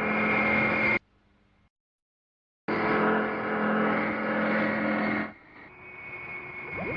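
Cartoon sound effect of a steady mechanical engine drone. It cuts off abruptly about a second in, comes back a couple of seconds later for about two and a half seconds, then drops away to a fainter sound that slowly grows.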